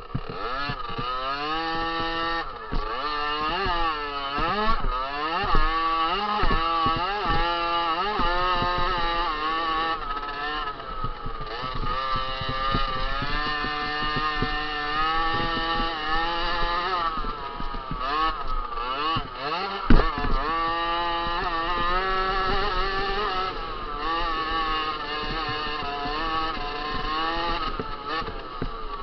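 Small 50cc two-stroke motocross bike engines racing, the pitch rising and dropping again and again as the throttle is opened and shut through the gears. There is a single sharp knock about twenty seconds in.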